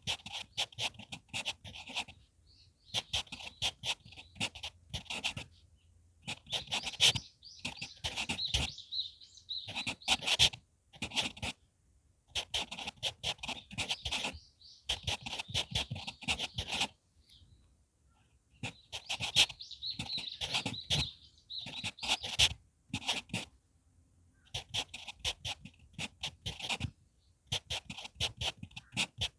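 HB pencil writing on manuscript paper, picked up close by an earphone microphone. Quick scratchy strokes come in bursts of one to three seconds, with short pauses between them.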